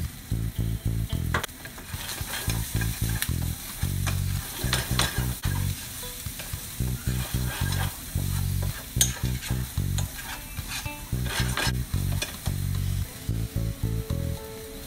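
Minced chicken, onion and dried chilies sizzling in a hot frying pan while a spatula stirs and scrapes through them, with scattered scrapes and ticks. A low, rhythmic pulsing runs underneath.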